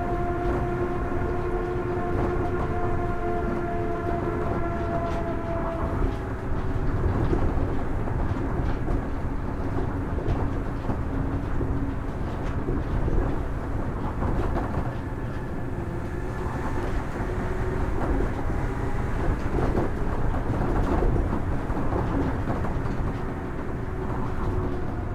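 Kitakyushu Monorail Series 1000 train with Hitachi IGBT-VVVF traction equipment running between stations. An inverter and traction motor whine of several steady tones fades out about six seconds in. After that a steady rumble of running noise carries on, with a fainter whine coming back near the end.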